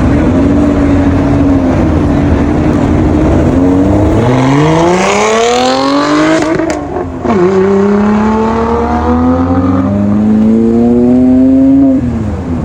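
Supercharged car engine accelerating hard at full throttle: pitch climbs, drops at an upshift a little past halfway, then climbs again through the next gear, with a supercharger whine on top.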